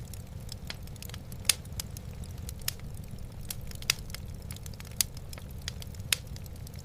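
Wood fire burning in a fireplace: logs crackling irregularly, with a few sharper pops, over a low steady rumble.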